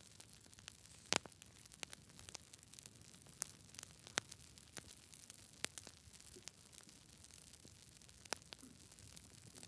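Wood fire crackling: sharp, irregular pops and snaps over a faint low hiss, the loudest pop a little over a second in.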